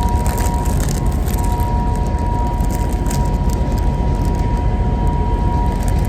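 Passenger ferry running under way: a loud, steady low rumble from the engines and hull, with a constant hum and light crackles over it.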